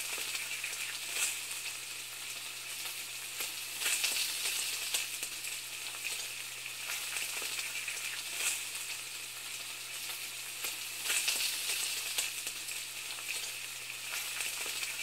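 Frying sizzle like food in a hot pan, a steady hiss with irregular crackling swells.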